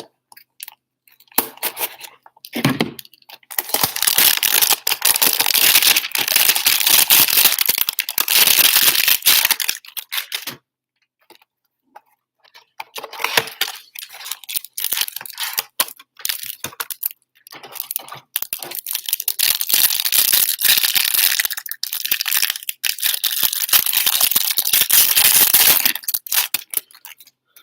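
Trading-card packaging being torn open and crinkled: plastic shrink-wrap and foil card packs ripped and handled, with crackly rustling. It comes in two long spells with a short quiet pause near the middle.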